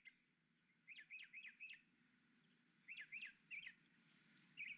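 A small bird chirping faintly outdoors, in three short runs of quick high notes about a second and a half apart.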